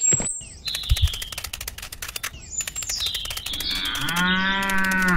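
A cow mooing once, a long call that starts about three and a half seconds in, rises briefly and then holds a steady pitch. Rapid, even clicking and high bird chirps run underneath.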